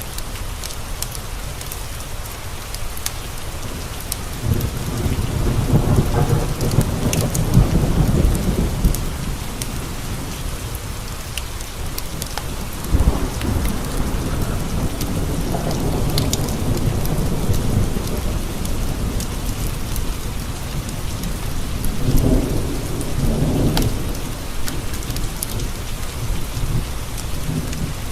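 Steady rain with three long rolls of distant thunder, the first about four seconds in, another near the middle and a shorter one near the end. A scatter of sharp ticks runs through it.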